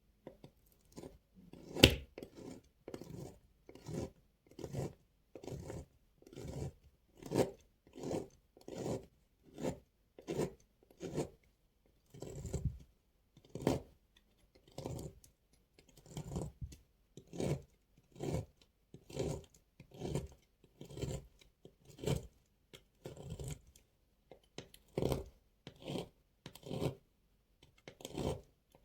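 Knife slicing through dry, crumbly bar soap in short, crisp, crunchy strokes, a little more than one a second, with one sharper crack about two seconds in.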